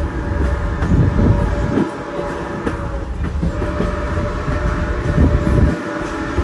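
Passenger train rolling along the rails with a steady low rumble and clatter, swelling louder a few times, over a faint steady whine.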